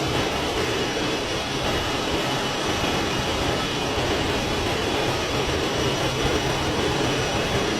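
Jet airliner's engines: a steady rush of noise with faint high whining tones held throughout.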